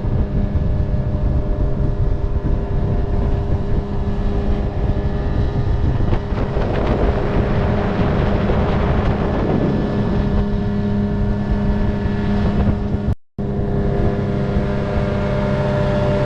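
Motorboat engine running steadily under way, with a hissing rush of wind and water swelling for a few seconds in the middle. The sound cuts out for a moment near the end.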